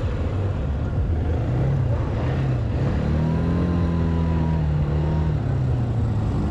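Mavila Gepard 200 quad's engine running under way, revving up about three seconds in and easing off again shortly before the end, over a steady rush of noise.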